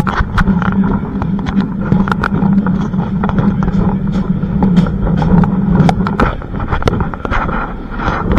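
Heritage train running along the line, with a steady low drone that fades about six seconds in and many irregular sharp clicks and knocks throughout.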